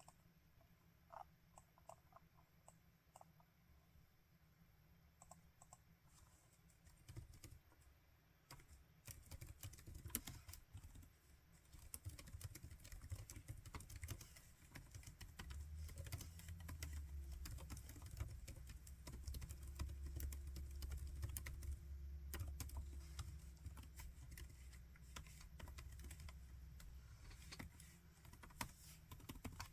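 Laptop keyboard being typed on: a few scattered key clicks at first, then steady fast typing from about eight seconds in.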